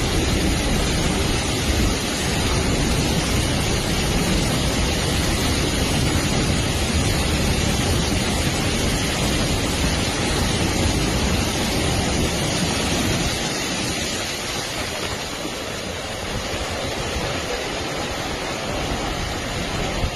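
Steady rushing of water in a heavy downpour over flooded railway tracks. The deep part of the noise fades about thirteen seconds in.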